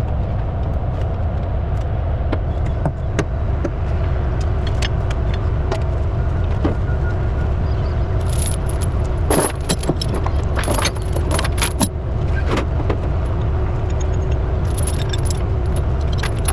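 Steel tie-down chain clinking and jingling as it is handled, in clusters around the middle and again near the end, over a steady low idle of the truck's engine.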